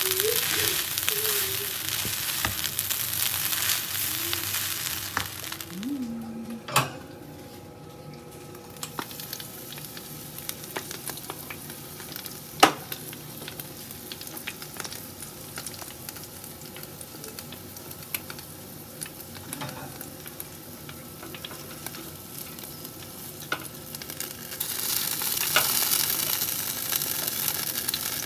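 Fried rice sizzling in a hot pan as it is stir-fried with a spatula. After about six seconds the sizzle stops, leaving a quieter steady hum broken by a few sharp clicks. A sizzling hiss rises again near the end.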